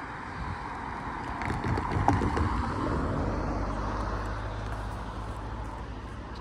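Amtrak passenger train rolling by: a rumble that swells, with a few sharp clicks about two seconds in, then eases off toward the end.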